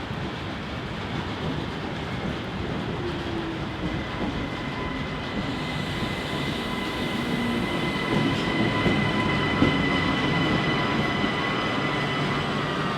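A train running past at a station, its noise building slowly, with a high steady squeal joining from about four seconds in.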